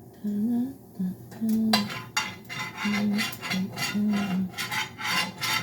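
A utensil scraping and rubbing in a frying pan in quick repeated strokes, about three a second, starting about a second and a half in. A woman hums a tune underneath.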